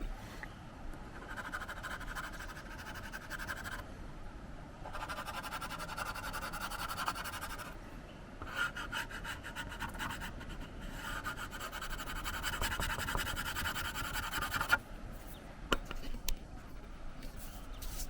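Watercolor pencil scratching across synthetic paper in four long stretches of quick back-and-forth strokes with short pauses between, followed by a few sharp clicks near the end.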